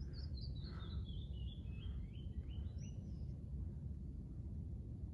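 A small songbird sings a quick run of short notes that falls steadily in pitch, followed by a few separate notes, over a steady low rumble of outdoor background noise.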